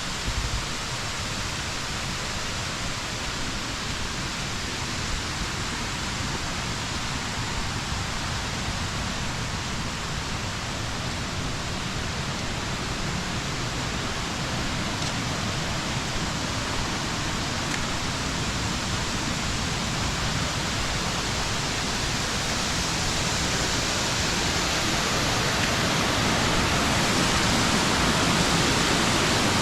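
Waterfall rushing steadily, a constant hiss of falling water that grows gradually louder.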